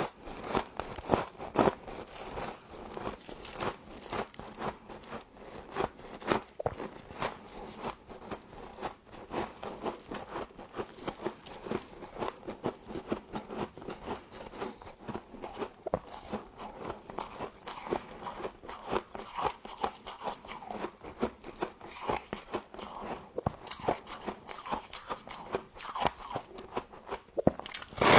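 Frost being bitten and chewed, a dense run of crunching and crackling that goes on without a break.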